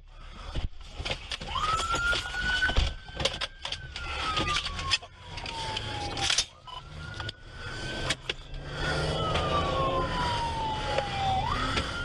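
Police car siren in a slow wail: it rises quickly and then slides down over about four seconds, starting over three times. Under it runs a low engine rumble, with scattered knocks.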